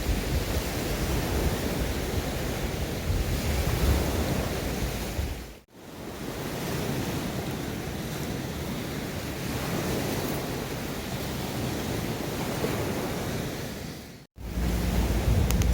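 Sea waves washing onto the shore, with wind on the microphone. The sound drops out abruptly twice, about six seconds in and near the end.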